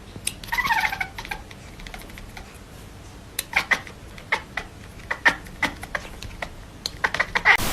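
A cat gives a short meow about half a second in, followed by a run of irregular sharp clicks and taps.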